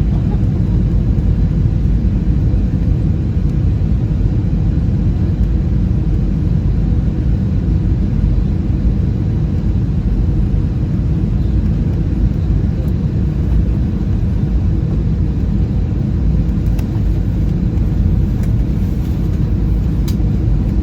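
Steady low rumble of engine and airflow noise in the cabin of an Airbus A320-216 with CFM56 engines, heard from a rear window seat, with a few faint clicks near the end.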